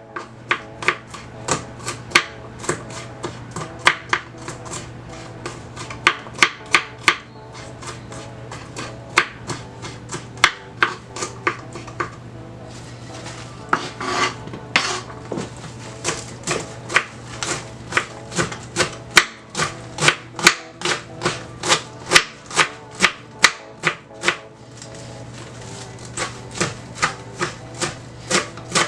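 Kitchen knife chopping on a cutting board in steady strokes, about two a second, with a brief pause and a scrape near the middle before the chopping resumes.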